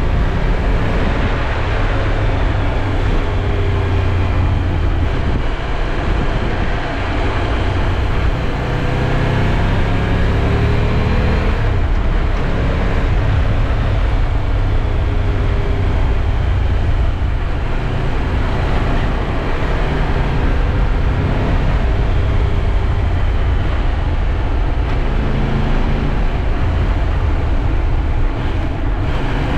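Triumph Tiger 1200 Rally Pro's three-cylinder engine running under way, its pitch rising and falling with the throttle, over a steady heavy rumble of wind and road noise.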